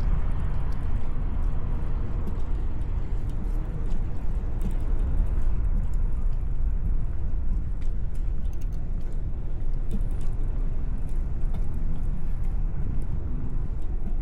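Steady rumble of wind and road noise from riding a bicycle along a city street, with car traffic going by; a vehicle fades away during the first couple of seconds.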